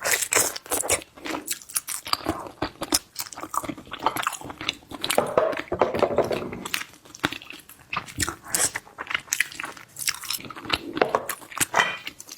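Close-miked chewing and biting of seafood: a steady run of wet mouth clicks and crunchy bites, with no pause.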